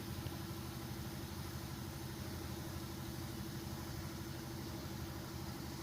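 A steady, low machine-like hum with a constant tone and no change in level.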